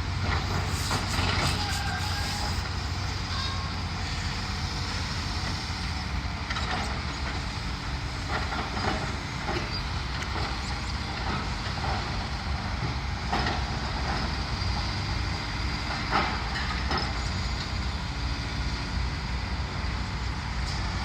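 Heavy demolition machinery running: a steady diesel engine rumble with scattered knocks and clanks of debris and metal.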